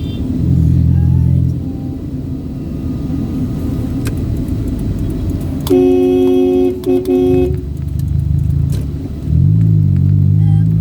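Motor vehicle running along the road with a steady low rumble. About six seconds in, a horn sounds for under two seconds with a brief break in the middle. Near the end the engine rises in pitch as it accelerates.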